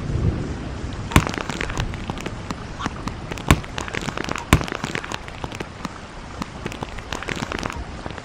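Rain falling on wet pavement: a steady patter with many sharp drop taps, a few of them much louder than the rest.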